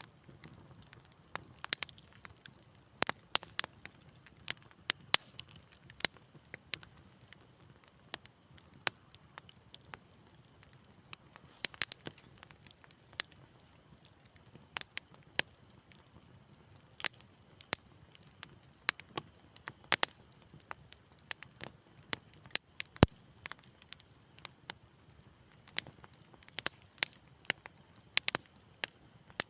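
Wood fire crackling: irregular sharp pops and snaps over a faint low hiss, with one louder snap near the end.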